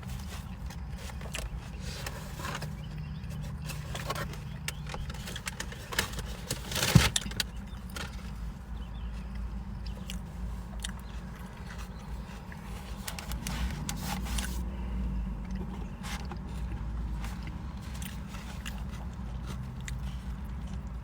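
Eating sounds: chewing a chili cheese dog and handling its wrapper, as scattered short scrapes and clicks. There is a steady low hum underneath and a brief louder clatter about seven seconds in.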